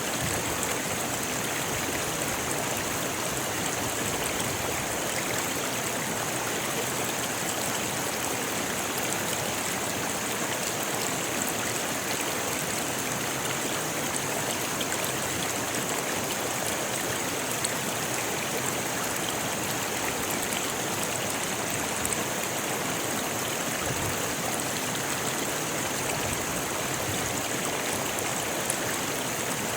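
A rocky river flowing steadily, water rushing over stones in an even, unbroken hiss.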